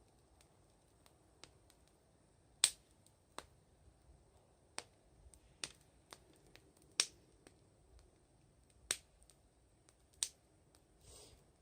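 Wood fire crackling: irregular sharp pops, about a dozen, a few much louder than the rest, with a brief soft hiss near the end.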